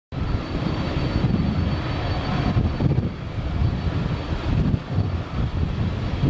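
Airliner engines running: a steady low rumble with a thin high whine, cutting in abruptly at the start.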